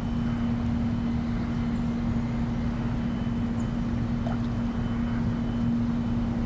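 A steady mechanical hum holding one low pitch, over a continuous low rumble.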